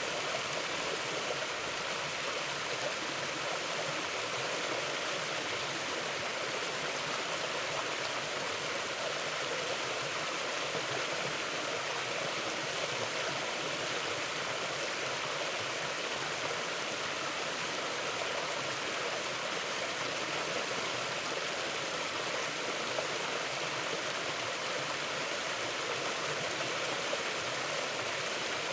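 Mountain river flowing over rocks: a steady rushing and babbling of water with no change.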